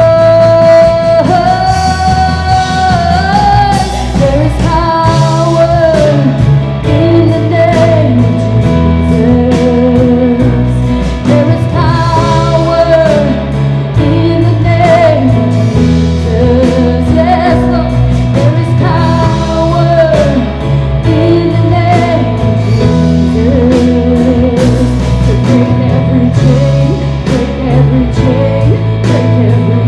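Live church worship band playing a rock-style worship song: singing over guitar, bass and drums.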